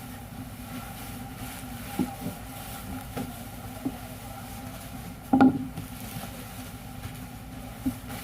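Machine running with a steady hum, broken by several short sharp knocks; the loudest knock comes about five seconds in.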